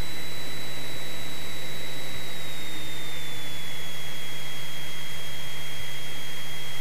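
Cessna 172 stall warning horn sounding as one continuous high whistle, its pitch sinking slightly, over steady cockpit engine noise: the wing is near the stall, as it is in the landing flare.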